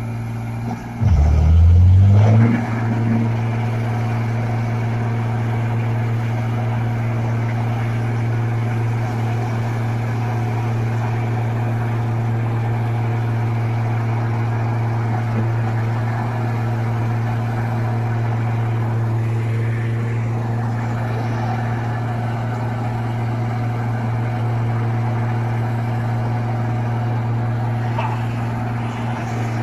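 A motor vehicle engine revs up, its pitch rising sharply about a second in, then runs on at a steady drone.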